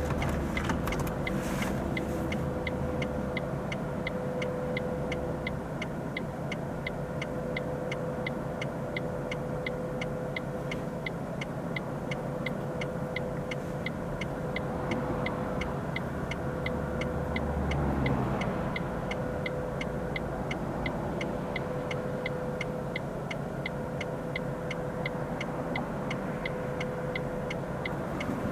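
Car being driven: a steady engine and road rumble with a constant hum, and a light, even ticking throughout. The sound swells briefly about two-thirds of the way through, then settles back.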